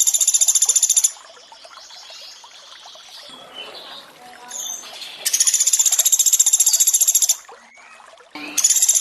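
Pelatuk beras woodpecker giving loud, high, rapid buzzing trills about two seconds long. One ends about a second in, another comes at about five seconds, and a third starts near the end. Water trickles quietly between the trills.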